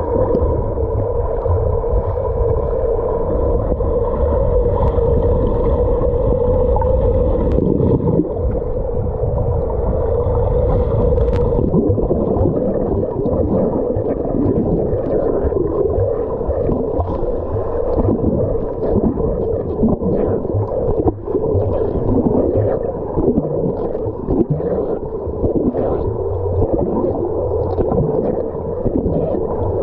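Swimming-pool water sounds, muffled as if heard underwater, with a steady hum under churning water that grows more uneven about halfway through.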